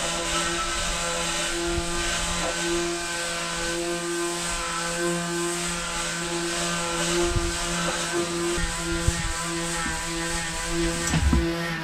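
A small electric motor running steadily at one speed, a constant hum with many overtones, with a few light knocks over it.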